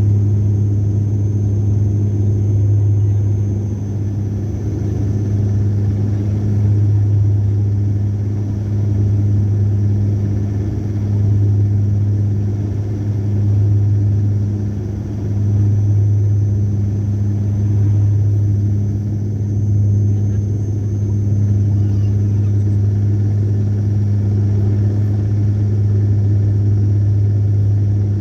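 Steady low mechanical hum of a motor running, with slow swells in level every few seconds.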